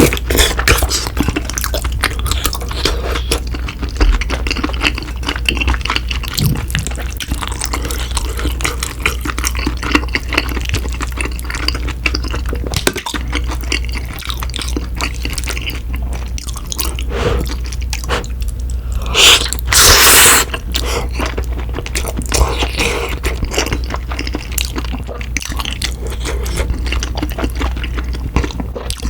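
Close-miked wet chewing of cream-sauced tteokbokki, dense with small sticky mouth clicks and squelches. About two-thirds of the way through there is a loud rush of noise lasting about a second.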